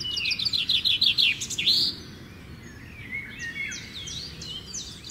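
A bird singing: a fast run of high, down-slurred notes, about six a second, for roughly two seconds, then quieter, varied chirps.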